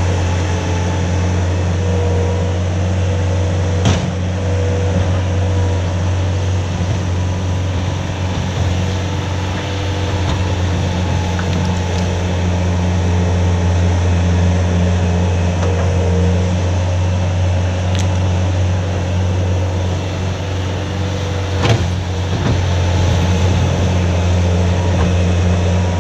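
Skid steer's engine running steadily with a low, even drone, and a few sharp knocks.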